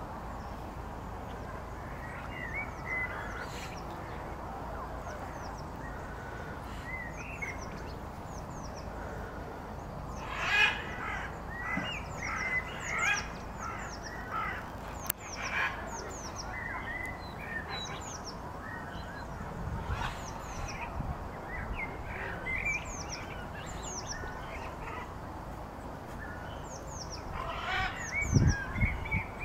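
Birds chirping and calling, with a run of louder calls about a third of the way in, over a steady low background noise. A loud low thump near the end.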